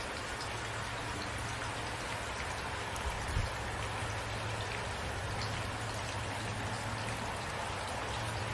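Steady rain falling at night, with scattered individual drops pattering over a continuous hiss and a low hum underneath. One brief low thump about three and a half seconds in.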